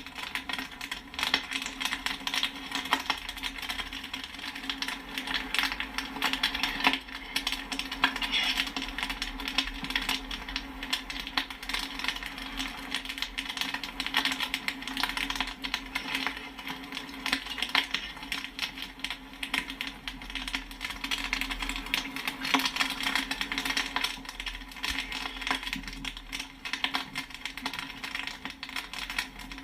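Popcorn kernels popping in rapid, irregular clicks, some with a metallic ping as they strike the pan, over a steady low hum.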